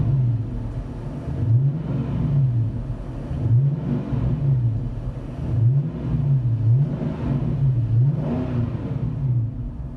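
2009 Dodge Challenger R/T's 5.7-litre Hemi V8 revved repeatedly through a cat-back exhaust with Street Demon mufflers and an X-pipe, its pitch climbing and dropping back about every two seconds with a low, deep tone.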